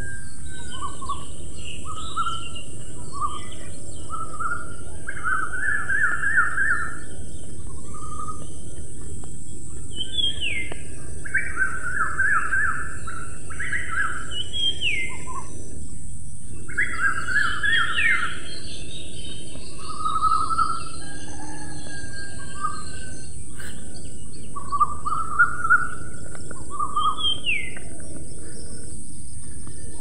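Small songbirds calling and singing: many short chirps, down-slurred whistles and quick trilled phrases, repeated throughout over a steady background hiss.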